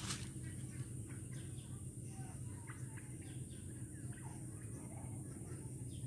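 Birds chirping in short, scattered calls over a steady low background noise and a faint steady high hiss, with a single knock at the very start.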